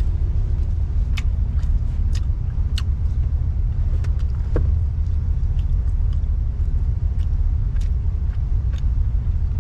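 Steady low rumble of a motor vehicle, heard from inside the cab, with a few light clicks scattered through it.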